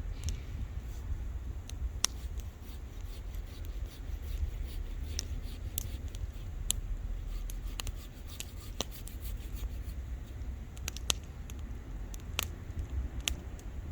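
Wood bonfire crackling: irregular sharp pops and snaps over a low steady rumble.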